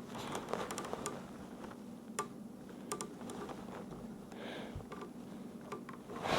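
Scattered light clicks and taps from hands handling tools and materials during a small wood-gluing repair, over a faint steady hum.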